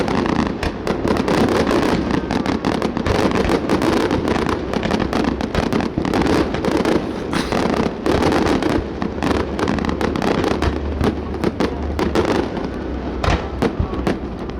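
Fireworks display going off in a dense, continuous barrage: sharp bangs several times a second over a steady crackling rumble.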